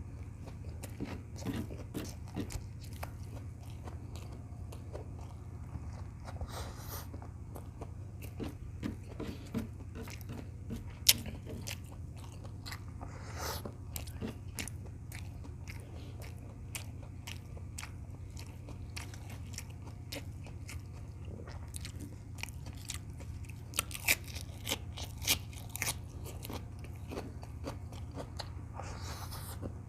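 Close-miked eating of beef tocino and rice: steady chewing and biting with wet mouth smacks and sharp clicks, a few louder ones about a third of the way in and again near the end, over a steady low hum.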